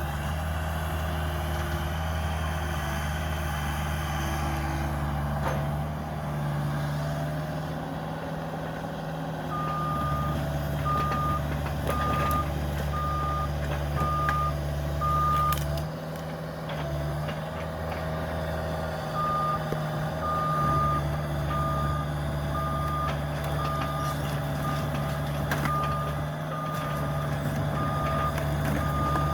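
Diesel engine of a Cat 305 mini excavator running steadily, with a reversing alarm beeping about once a second from about a third of the way in; the beeping pauses for a few seconds past the middle, then resumes. A few sharp knocks are heard.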